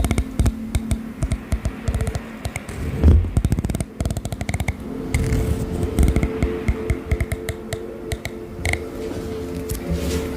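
Rapid, irregular tapping and clicking on hard objects, over a steady hum whose pitch steps up about halfway through.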